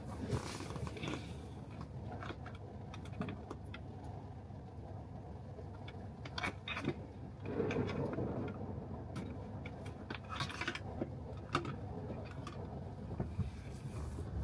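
Electric car driving on a wet road: a steady low rumble of tyres and road, with many small irregular clicks and ticks over it and a brief swell of road noise about halfway through.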